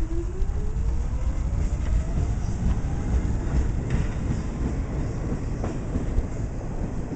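A Staten Island Railway R44 electric subway train accelerating away from a station platform. The wheels make a low rumble throughout, and a motor whine rises in pitch over the first few seconds as the train picks up speed. A few clacks of the wheels over rail joints come later.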